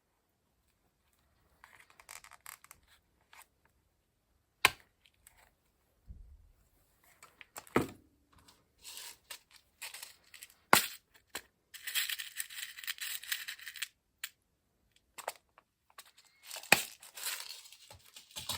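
Paper and craft materials being handled for a journal page: rustling, paper tearing in two longer stretches near the middle and near the end, and a few sharp taps as pieces are set down.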